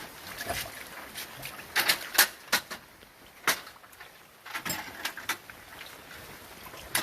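Irregular sharp clicks and knocks of hard objects being handled, some with a short ring, bunched in a quick cluster about two seconds in and again around the middle.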